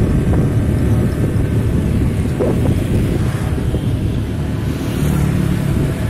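Heavy road vehicle's engine and road noise: a steady low rumble, with wind buffeting the microphone. A steadier engine note comes up about five seconds in.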